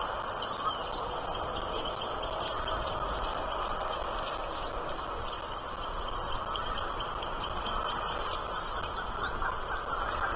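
A small bird calling repeatedly: short, high chirps about once a second, over a steady background hiss.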